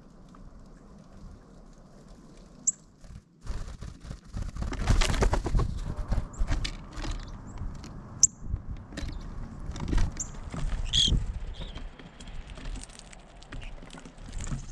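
A few brief high bird chirps, one with a gliding pitch, over a low rumble with scattered knocks.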